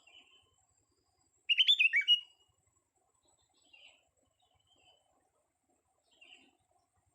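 Young sooty-headed bulbul (kutilang) singing: one loud, quick phrase of several whistled notes about a second and a half in, with a few soft short calls before and after.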